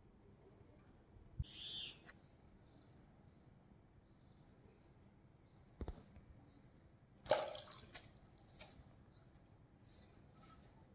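Small bird chirping: a string of short high notes repeated every half second or so. A few faint clicks and one louder knock about seven seconds in.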